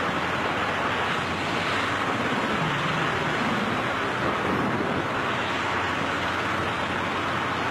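Steady rushing wind noise, without break, of the kind heard from a skydiver's camera in freefall. A faint wavering low tone comes through in the middle.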